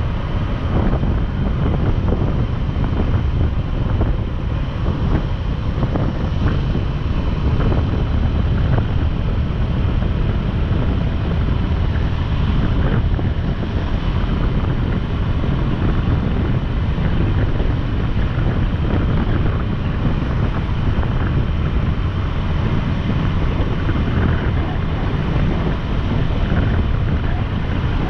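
Wind rushing and buffeting over the microphone of a motorcycle at riding speed, steady throughout, with the motorcycle's engine and road noise underneath.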